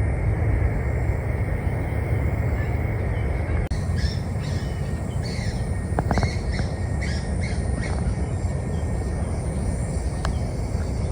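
Birds calling outdoors in a run of short chirps through the middle few seconds, over a steady low rumble.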